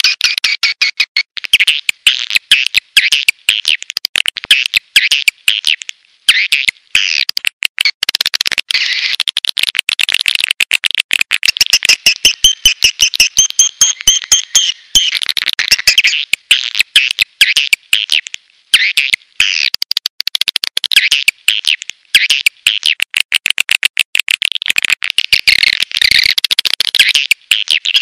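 Swiftlet lure recording: a dense, unbroken chorus of swiftlet twittering and rapid clicking chirps, the kind of call played to draw swiftlets into a nesting house.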